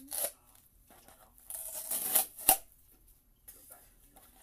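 Powder supplement packaging being opened and handled, with bursts of tearing and crinkling and a sharp snap about two and a half seconds in.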